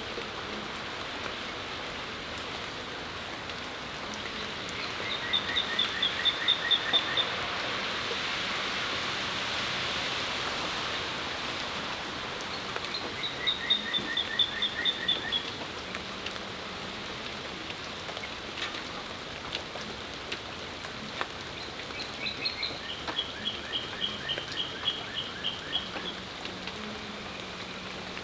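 Steady rain falling, an even hiss, which swells and fades again about a third of the way through. A songbird sings the same phrase three times over it: a quick run of about eight short, descending notes.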